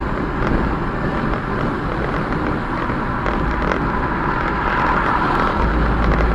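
Steady road and wind noise of a moving vehicle, with a low rumble that grows heavier near the end.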